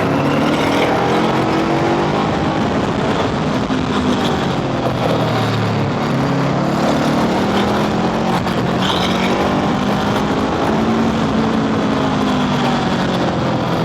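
Honda scooter engine running while riding, its pitch slowly rising and falling with the throttle.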